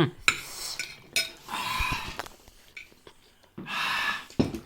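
Metal cutlery clinking and scraping against a bowl while noodles are eaten, with a few sharp clicks and two longer breathy bursts of noise.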